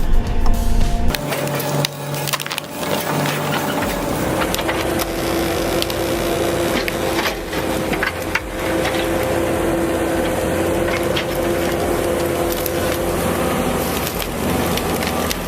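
Wood cracking and splintering under a machine, with an engine running steadily underneath.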